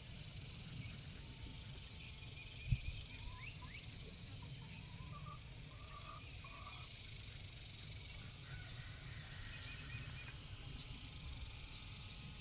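Faint calls of farm birds over a steady low rumble, with a single sharp knock between two and three seconds in.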